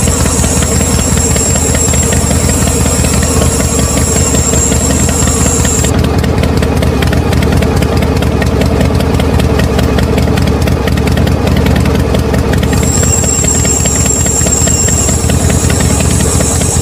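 A small motor runs steadily with a fast mechanical rattle, driving a DIY miniature tractor and flour-mill model. A thin high whine drops out for about seven seconds in the middle, then returns.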